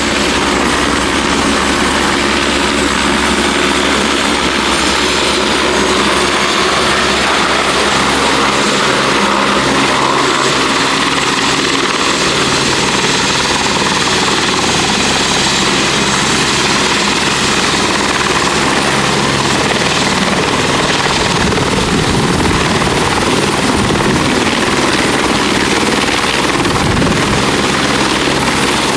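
Turbine helicopter running close by: a steady high turbine whine over loud rotor and engine noise, growing rougher in the low end about two-thirds of the way through.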